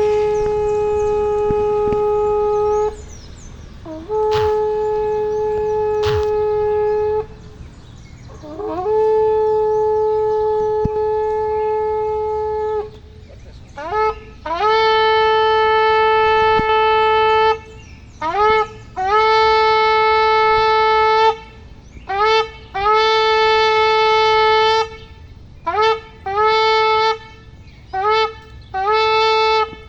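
A shofar (ram's horn) is blown in loud, brassy blasts on one pitch. It starts with three long held blasts, then shifts to groups of shorter blasts that each begin with an upward swoop. Near the end comes a quick run of short blasts.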